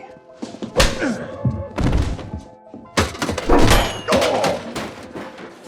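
Fight sound effects: about five heavy thuds of blows landing, spaced roughly a second apart, over background music.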